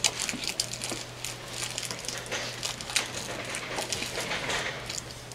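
Hanshin electric train heard from its cab: a steady low hum with scattered clicks and crackles.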